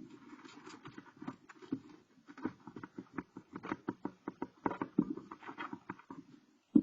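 Barn owl scrabbling and shuffling in its nest box: a busy run of small scratches, clicks and scrapes, with one loud knock at the very end.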